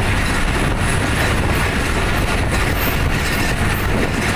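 Pakistan Railways express passenger train running at speed, heard from beside a coach: a steady loud rumble of wheels on the rails with rushing noise.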